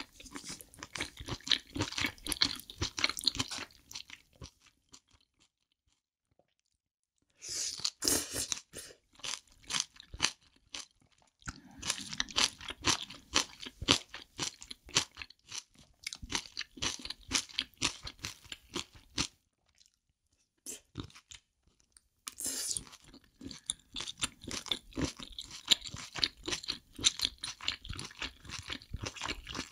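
A person chewing and crunching spicy braised octopus and bean sprouts close to the microphone, with wet crackling bites. The sound comes in three runs, broken by two silent gaps of a few seconds.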